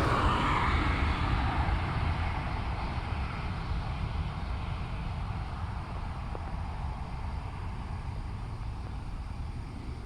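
Jet engines of an Airbus A330 at takeoff power, a noisy roar that fades steadily as the airliner climbs away, leaving a low rumble.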